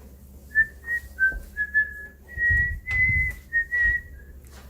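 A person whistling a short tune of about nine notes, hovering around one pitch with small steps up and down, over a few low bumps of movement.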